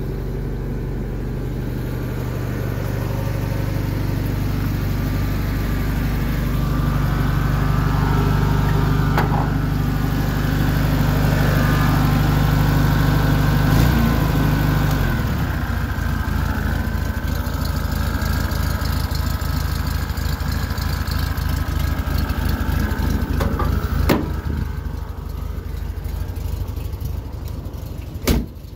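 Volkswagen Beetle's air-cooled 1200 flat-four idling steadily. About halfway through the sound comes from close at the engine bay, where each exhaust beat can be heard distinctly. A few sharp knocks near the end.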